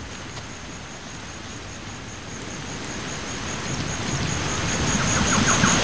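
Steady rushing noise like wind, with a thin high whine throughout, swelling louder over the last few seconds.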